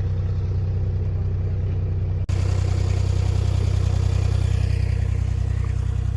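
Truck engine running steadily with a low drone, broken by a brief dip about two seconds in.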